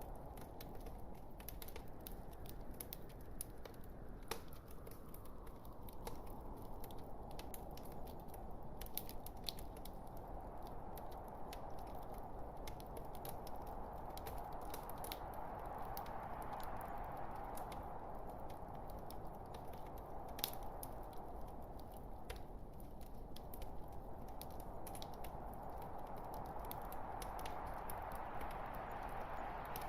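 Logs burning in a fireplace: a steady hiss of flame with many small crackles and pops scattered through it.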